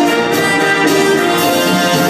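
Orchestral music with brass and strings, the musical's dance score.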